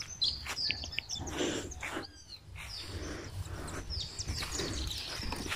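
Several birds chirping and calling in short high notes, a few sliding downward, over a steady low rumble.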